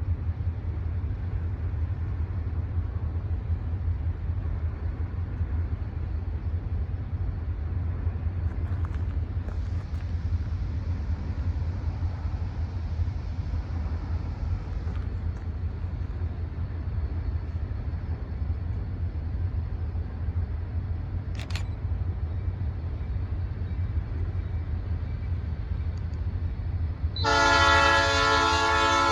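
A steady low rumble, then near the end a locomotive air horn starts sounding: a loud held chord of several notes.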